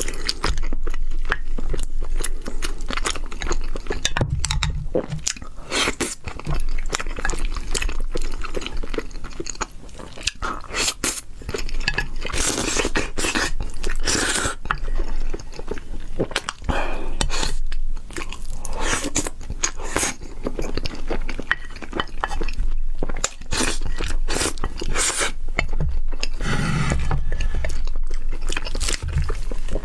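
Close-miked eating: wet chewing and mouth clicks over a mouthful of eel and rice, with a wooden spoon and chopsticks now and then scraping and clinking on a ceramic plate. The sounds come in irregular clicks and smacks.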